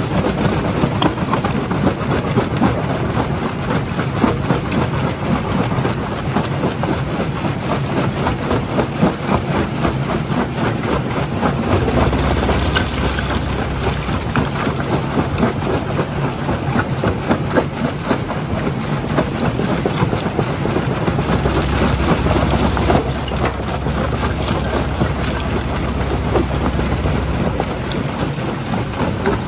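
Primary jaw crusher running on rock: a steady heavy mechanical rumble with a continuous clatter and cracking of stone. A deeper rumble with a hiss swells twice, about twelve seconds in and again about twenty-one seconds in.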